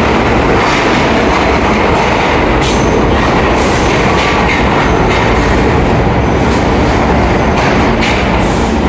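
R46 subway train running through the station with a loud, steady rumble of wheels on the rails, broken by a few brief high-pitched bursts.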